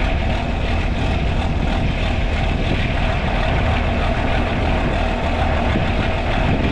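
John Deere 4520's six-cylinder diesel engine running at idle just after a cold start, a steady low rumble.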